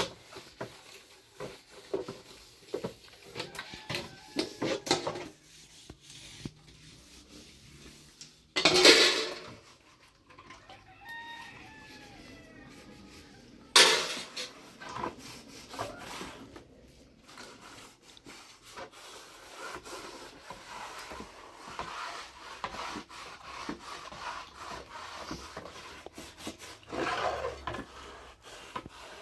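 Rubbing, scraping and knocking sounds, with two louder scrapes and a few short animal calls in between.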